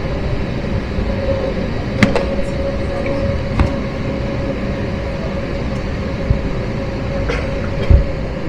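Cabin noise aboard an Airbus A321: a steady rumble with a steady engine tone, broken by a few sharp knocks and rattles, the loudest near the end.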